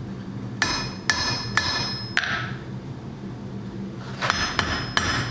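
Blacksmith's hand hammer striking hot bar stock on an anvil to shape a small forged pendant. Four blows about half a second apart, each with a short metallic ring, then after a pause of about two seconds four quicker blows, over a steady low hum.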